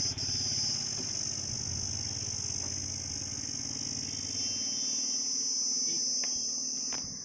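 Royal Enfield Himalayan's 411 cc single-cylinder engine idling with a steady low beat, which falls away near the end. Crickets chirp in a loud, steady high-pitched drone throughout.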